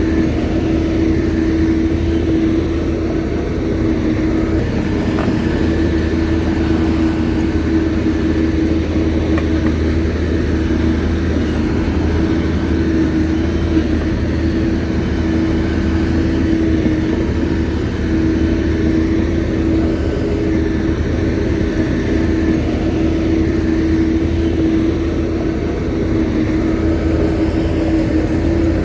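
Shantui bulldozer's diesel engine running steadily under load, with a constant low drone and a steady mid-pitched whine.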